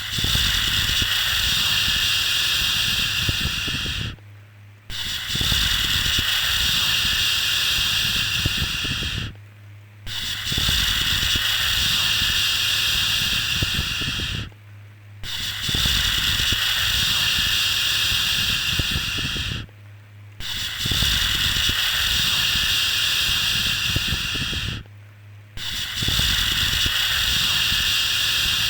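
Looped 'shhh' shushing sound for soothing a baby: long hushes of about four seconds each, separated by brief pauses, about six in a row. A low steady hum runs under each hush.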